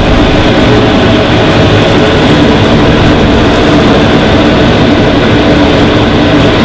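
Steady, loud mechanical drone with a low hum from a food truck's running machinery, an engine-like noise that does not change.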